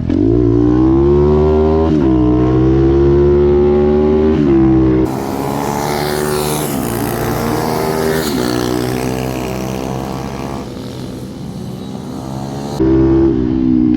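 Pit bike engine racing hard, pitch climbing and dropping back at two upshifts in the first five seconds. It then winds down in steps through downshifts, quieter and with a hiss, before it is back on the throttle and loud again near the end.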